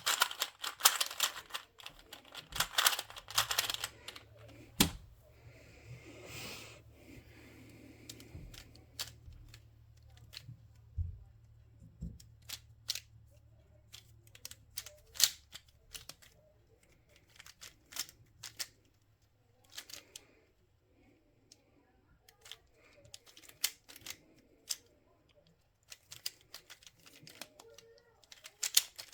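Plastic puzzle cube being turned by hand: a fast run of clicking turns over the first few seconds, then scattered single clicks and short bursts of turning.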